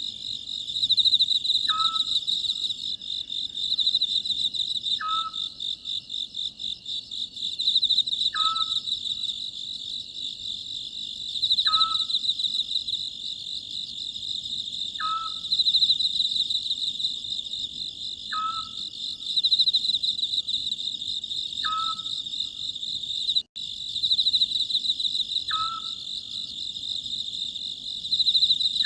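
Oriental scops owl giving a short single call about every three and a half seconds, eight times, over the steady high chirring of crickets.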